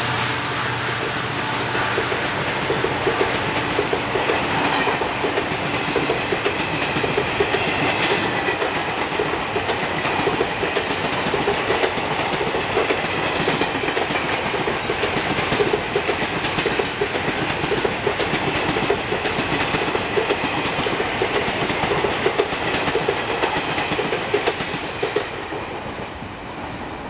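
Passenger coaches of a diesel-hauled express train rolling past, the wheels clacking steadily over the rail joints. The sound eases off near the end as the last coach goes by.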